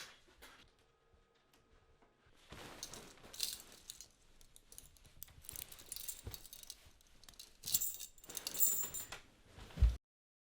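Small metal objects jingling, clinking and rattling in bursts, with a low thump near the end, after which the sound cuts off to dead silence.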